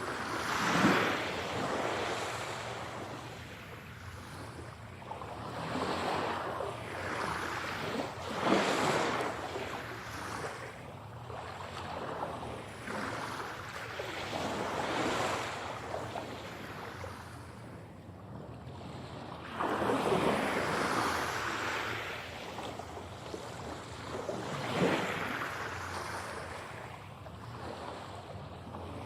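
Sea waves breaking on a shore, each wash of surf swelling and ebbing every few seconds.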